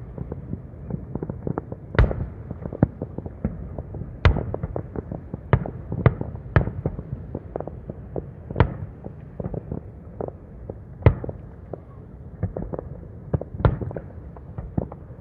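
Distant fireworks: aerial shells bursting in an irregular stream of sharp reports, several loud bangs every couple of seconds over a constant low rumble of fainter pops and crackles from many shows at once.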